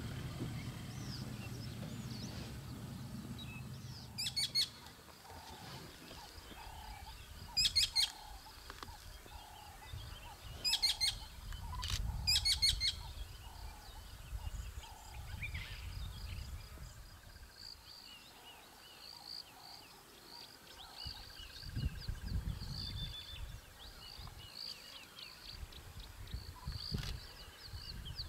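Wild birds calling in the bush: four loud, sharp bursts of rapid notes, a softer call repeated about once a second through the middle, and chirping near the end. A low hum stops about four seconds in.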